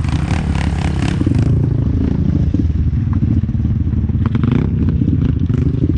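A pit bike's small four-stroke engine running loud and rough, with rattling and clatter over it in the first second and a half.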